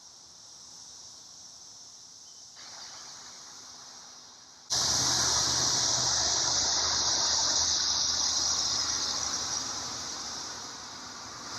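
Brood X periodical cicadas singing in chorus as a steady, high-pitched drone. Less than five seconds in it abruptly becomes much louder, with a rushing noise and low rumble added, then slowly eases off.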